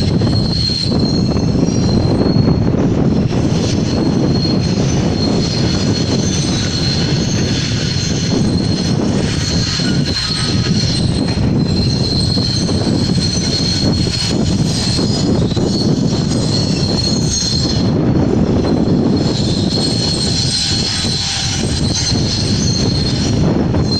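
Komatsu GD555 motor grader's diesel engine running steadily under work, with a thin, high-pitched squeal held over it.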